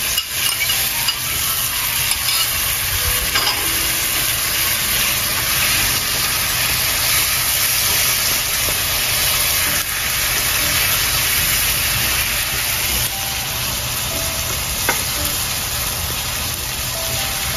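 Sofrito of tomato purée, garlic powder, cumin and oregano sizzling steadily as it fries in a pan.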